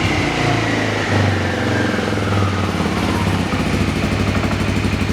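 Suzuki Skywave 250 Type M scooter's fuel-injected single-cylinder engine through an aftermarket custom muffler. A short throttle blip about a second in, the revs falling away, then a steady pulsing idle from about halfway through.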